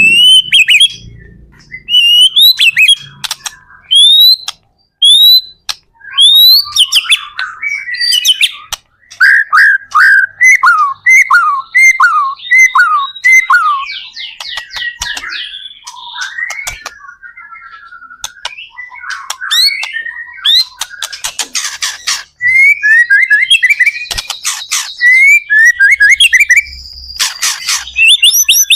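White-rumped shama singing in full song: a varied run of clear rising whistles, then a string of falling notes about midway, broken by fast rattling trills.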